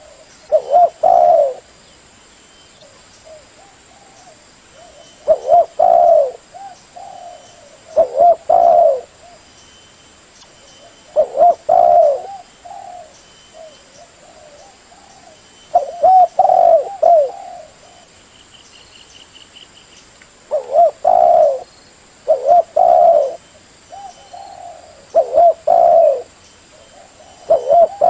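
Spotted dove cooing, used as a recorded lure call: short phrases of a few low coos, repeated about every three seconds.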